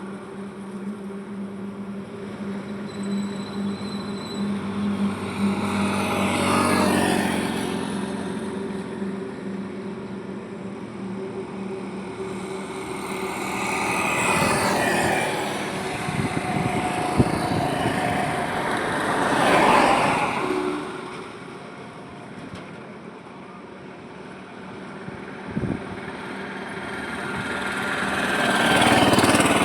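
Highway traffic with vehicles passing one after another, about four pass-bys that each swell and fade. It opens with the steady drone of a heavy engine running, and a brief tick and a short thump come in the lull between passes.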